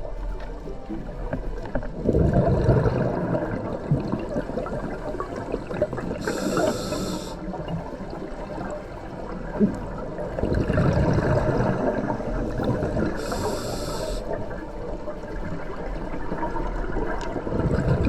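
A scuba diver breathing through a regulator underwater. Each breath is a short high hiss of air drawn from the regulator, followed by a bubbling rush of exhaled air. The exhales come about 2 s in, about 10 s in and near the end, with the inhales about 6 and 13 s in.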